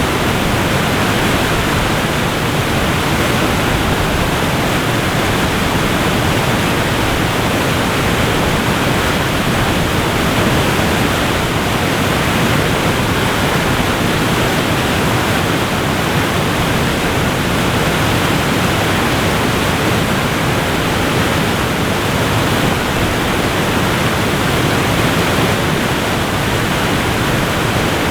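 Waterfall rushing steadily, a dense, even roar of falling water with no breaks.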